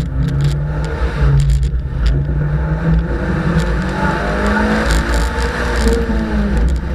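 Fiat rally car's engine heard from inside the cabin, driven hard, its note climbing and falling as the car accelerates and the driver lifts and shifts, with a few sharp clicks over it.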